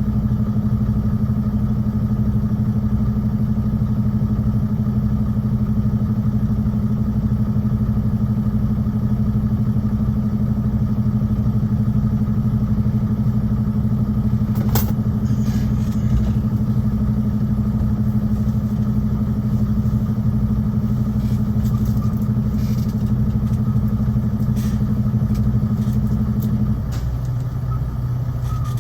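Semi truck's diesel engine droning steadily in the cab while driving, with a single sharp click about halfway through. Near the end the higher part of the drone drops away and it gets slightly quieter, as the engine eases off.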